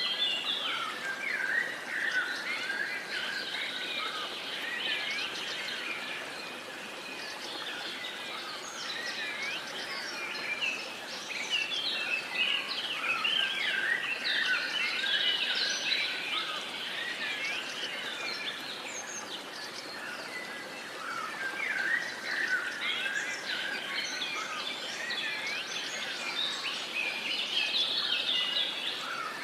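Many birds singing and calling at once, a dense chorus of overlapping chirps and trills that thins out briefly now and then, over a faint steady hiss of outdoor background.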